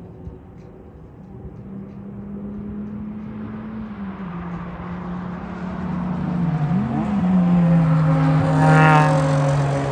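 Sports car engine running and growing steadily louder as it comes closer, its pitch dropping in two steps about four and seven seconds in. Near the end the note turns rougher and wavering.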